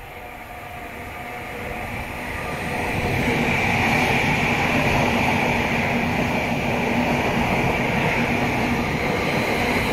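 Electric multiple-unit train approaching and then running past a station platform at speed. It grows louder over the first three seconds, then holds a steady rush of wheels on rail with a constant hum as the carriages go by.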